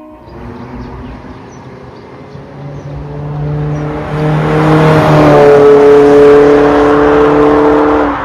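Exhaust note of a Toyota Corolla Altis Hybrid's 2ZR-FXE 1.8-litre four-cylinder through an MS-R valved catback exhaust, growing louder over the first five seconds and then holding a steady note. It cuts off abruptly near the end.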